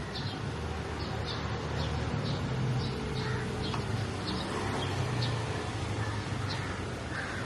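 A bird chirping repeatedly, short high notes about twice a second, over a steady low outdoor rumble.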